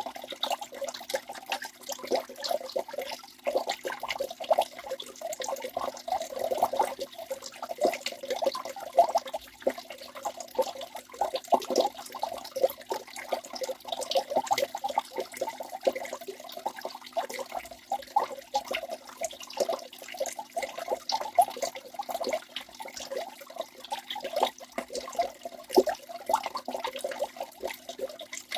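Waterfall: water falling and splashing continuously in a dense, uneven patter of small splashes.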